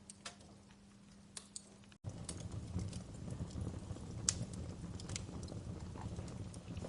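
Wood fire crackling in a fireplace: scattered sharp pops and snaps over a low steady rumble. The rumble cuts out for an instant about two seconds in and comes back louder.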